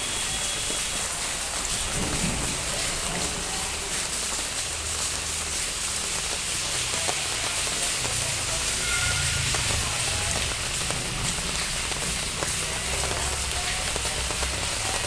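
Steady rain falling on leafy garden plants.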